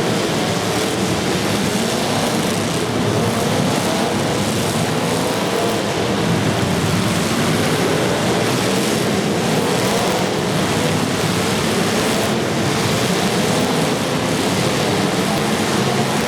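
Several demolition derby cars' engines running and revving at once, their pitches rising and falling constantly over a dense, steady wash of noise.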